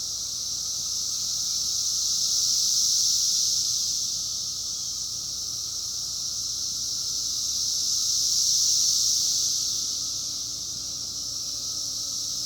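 Chorus of periodical cicadas (the 2021 emergence), a continuous high buzzing that swells and fades in slow waves, peaking twice.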